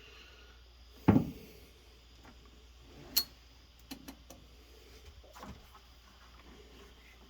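Handling sounds of work on a truck door's window channel: a thump about a second in, then a sharp click and a few lighter clicks and taps as the rubber gasket is worked into the channel.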